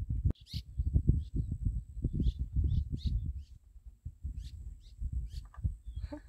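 Birds chirping, short high calls about every half second to a second, over gusts of wind buffeting the microphone.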